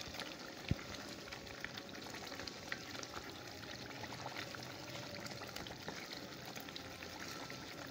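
Chicken and spice masala frying in a karahi with a steady sizzle and scattered small crackles, with one sharper click just under a second in. The water has cooked off and the ghee has risen to the top, so the masala is now frying in its own fat.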